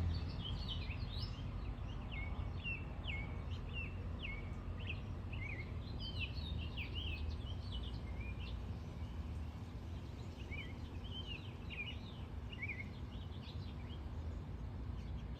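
Small birds chirping: many quick, high notes, some sliding down in pitch, over a steady low background rumble.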